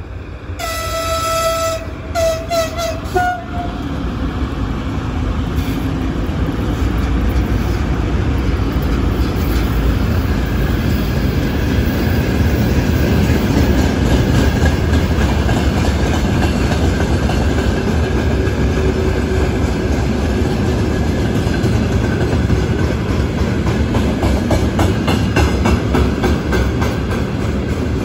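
VL10U electric locomotive sounding its horn: one held blast, then a few short toots. The freight train of tank cars then rolls past with a steady heavy rumble and the clickety-clack of wheels over rail joints.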